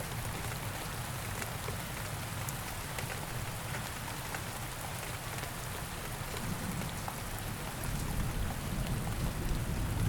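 Steady rain falling, with scattered sharp ticks of individual drops hitting surfaces. A low rumble of thunder starts to build near the end.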